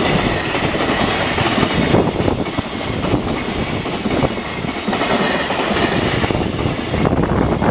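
A train passing close by, with its wheels clacking steadily over the rail joints.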